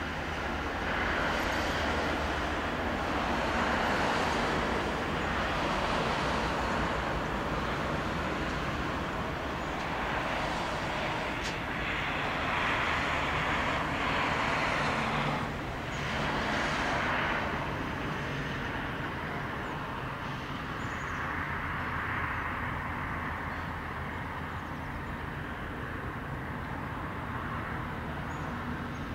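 Distant electric passenger train rolling along the riverside railway, a steady rushing noise that is strongest in the first half and eases off after about 17 seconds.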